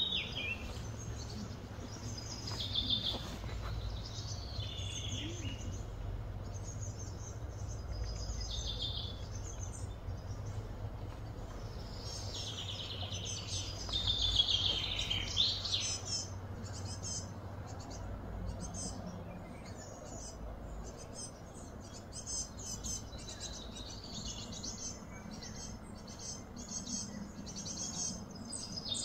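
Outdoor birds chirping and calling in short repeated phrases, busiest about halfway through, over a steady low background hum.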